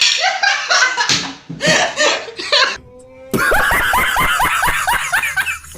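A hand being slapped amid laughing and shrieking voices, followed about three seconds in by an edited-in comic sound effect: a quick run of repeated falling-pitch notes, about four a second.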